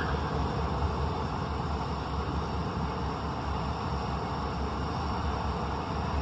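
Diesel freight locomotive running steadily as the train inches forward at low speed.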